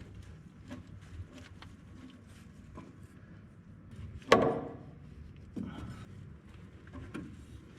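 Scattered light clicks and knocks of hands and tools working on machine parts, with one sharp, loud knock about four seconds in and a duller thump a little later.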